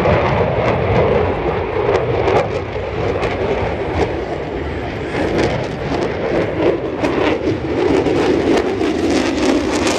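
Jet roar of a USMC F-35B's single Pratt & Whitney F135 afterburning turbofan during a flying display: a loud, steady noise with a rapid crackle through it.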